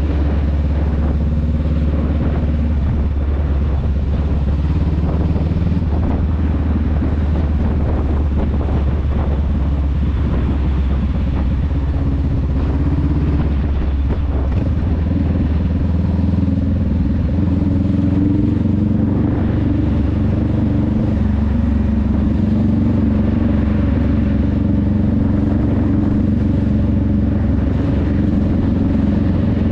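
Honda Rebel 500's parallel-twin engine and exhaust running steadily under way. The engine note changes about halfway through and then sounds fuller.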